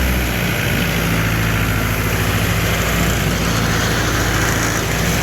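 Engine of a 2009 Altec DC1217 wood chipper running steadily at an even speed, sounding healthy: it "runs really good".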